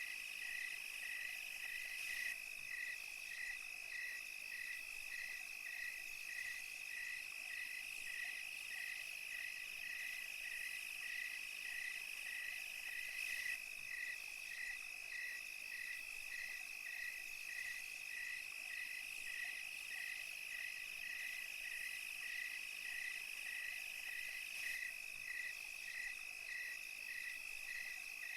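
Countryside night chorus of crickets and other insects: a continuous high trill, with a regular chirp repeating a little under twice a second and a fainter high hiss of insects.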